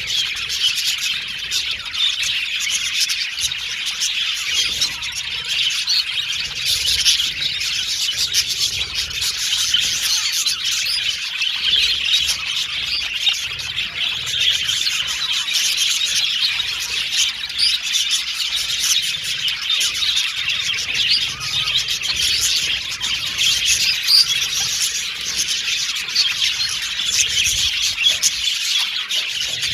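A flock of budgerigars chirping and chattering together in a dense, unbroken twitter of overlapping chirps.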